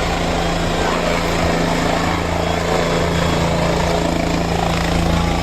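Helicopter engine and rotor running with a loud, steady drone and an even low hum.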